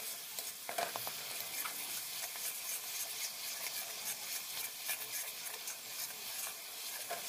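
Onion and garlic paste sizzling in hot mustard oil in a metal kadai while a metal spatula stirs it, with frequent small scrapes and taps of the spatula against the pan over a steady frying hiss.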